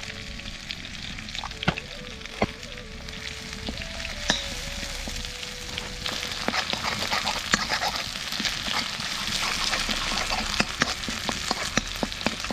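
Chicken pieces sizzling in hot oil in a wok, with a metal spoon clicking and scraping against the pan as they are stirred. The sizzle grows louder about halfway through.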